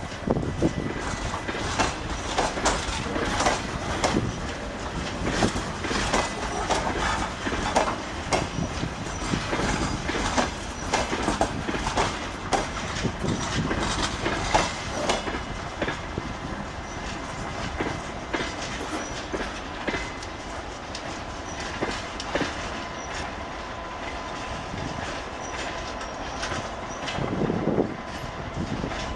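TEM2M diesel shunting locomotive moving along the track, its wheels clacking over rail joints with a steady running noise; the clacks come thick at first and thin out later on.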